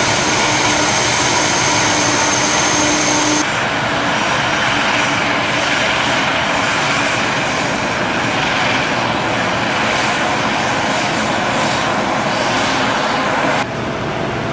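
Aircraft engines running loud and steady, with a high steady whine over them for the first few seconds. The sound cuts abruptly to another stretch of engine noise about three and a half seconds in, and changes sharply again near the end.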